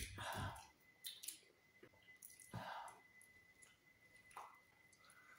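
Faint mouth sounds of a person eating yam and eggplant sauce with her fingers: a handful of short, irregular smacks and clicks of chewing.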